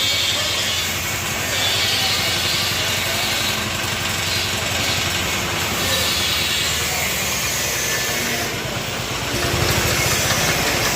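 An engine running steadily with a low, even pulsing, under a rushing hiss.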